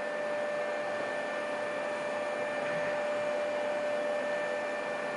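Steady room background noise: an even hiss with a constant high hum running through it.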